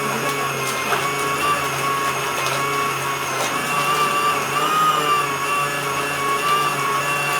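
Washing machine's electric motor running steadily, with a low hum and a whine whose pitch wavers slightly as the load shifts.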